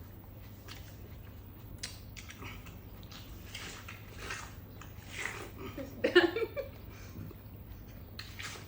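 People biting into and chewing juicy watermelon, with irregular wet crunching and slurping bites. A louder brief burst comes about six seconds in, over a steady low hum.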